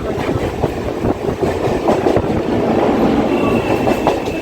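Indian suburban local train running, its wheels knocking irregularly over the rails amid steady rumble and rattle. A faint high whine joins a little after three seconds in.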